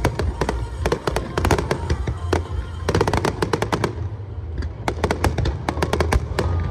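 Fireworks bursting overhead in a rapid, irregular string of sharp cracks and bangs over a steady low rumble, in dense clusters with only short gaps between them.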